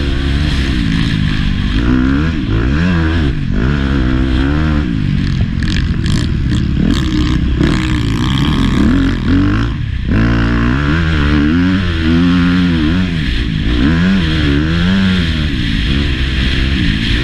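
Motocross bike engine revving hard as it is ridden, its pitch climbing and falling every second or two, with a brief throttle-off dip about ten seconds in.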